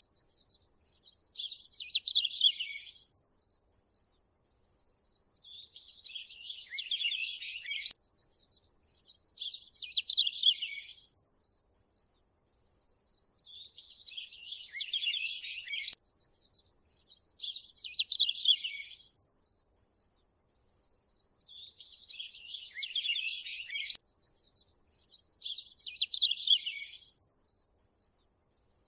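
Nature ambience: short bursts of bird chirps recur about every four seconds over a steady high hiss, typical of an insect chorus.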